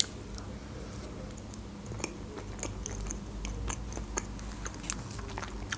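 Close-up mouth sounds of eating a spoonful of creamy berry dessert: soft wet chewing and smacking, with scattered small clicks.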